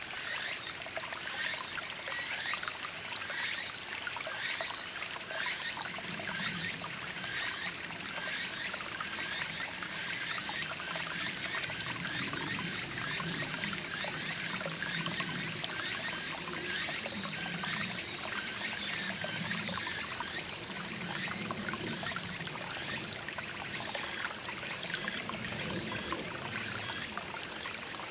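Small mountain stream trickling and babbling steadily, with a high, steady insect drone over it that grows louder about two-thirds of the way through.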